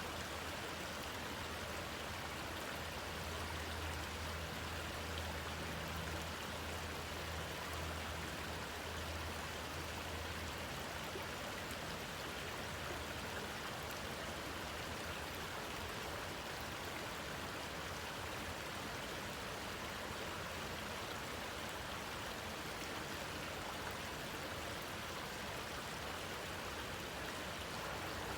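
Steady rushing of water falling in a waterfall. A low hum sits under it for about the first ten seconds, then fades out.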